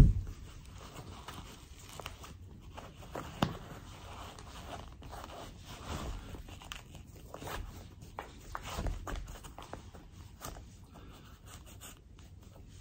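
Backpacking gear being handled: irregular rustling and scraping with short rasps, and a sharp knock about three and a half seconds in.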